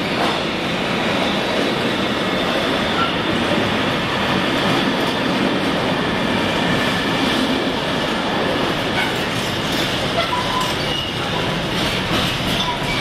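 Intermodal freight train of container flat wagons, mostly empty, running through at speed: a steady rumble and rattle of wheels on rail. In the last few seconds there are clicks over rail joints and a few brief wheel squeaks.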